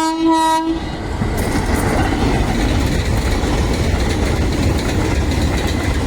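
Indian Railways locomotive horn holding one steady note, cutting off under a second in, then the loud rumble and clatter of a train of coaches passing at speed, the wheels clicking over the rail joints.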